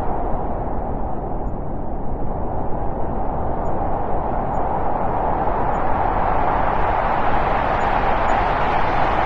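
Wind blowing, a steady whoosh centred in the middle range that swells into a stronger, brighter gust over the last few seconds.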